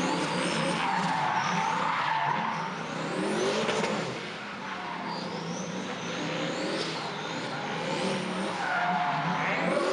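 Turbocharged Chevrolet LS V8 in a Nissan Silvia S14 drifting: the engine revs up and down while the tyres squeal. The sound drops back somewhat a little before halfway and grows louder again near the end.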